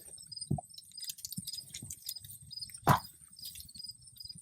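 Crickets chirping in an even rhythm over a high continuous insect trill, with a few small knocks and one sharp thump about three seconds in.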